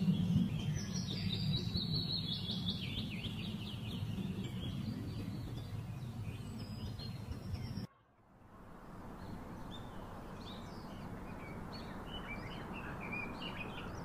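Small wild birds chirping in quick short notes over a steady low background rumble. About eight seconds in the sound cuts out for a moment, then fainter chirping resumes over a soft hiss.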